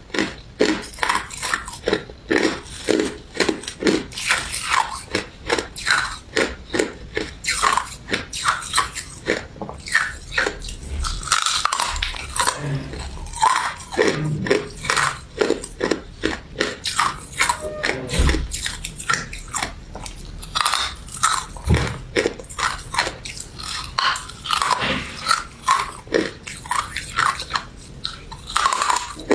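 Close-miked crunching and chewing of a crystal ice dessert with citrus jelly pieces, crisp bites coming two or three times a second with a few low thuds in between.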